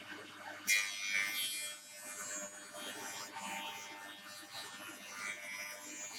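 Spindle shaper running, with a cut into a wood board starting about a second in: a machine hum under the rough noise of the cutter head milling the edge.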